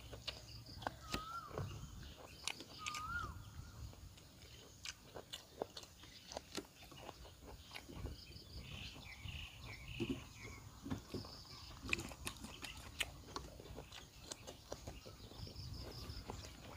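A person chewing and crunching vegetables up close, with a run of small, irregular crunches and mouth clicks. Birds chirp in the background, with a few short whistled calls in the first few seconds.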